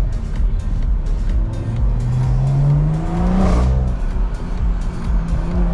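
Car engine accelerating hard: its pitch climbs, drops suddenly at a gear change about three and a half seconds in, then climbs again near the end. EDM music with a steady beat plays along.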